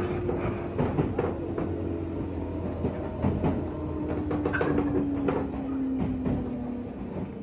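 JR West 201 series electric train heard from inside a motor car, slowing: its thyristor-chopper traction equipment gives a single tone that falls slowly in pitch, over steady running noise and wheel clacks at rail joints.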